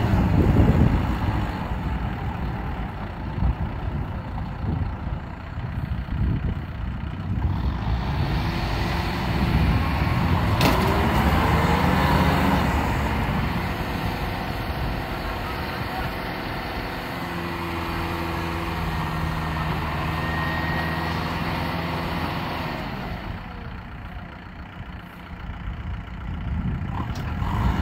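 Kubota M6040SU tractor's diesel engine running hard while the tractor is stuck in deep mud. Its pitch and loudness shift as it labours, holding steadier about two-thirds of the way through, then easing off briefly near the end.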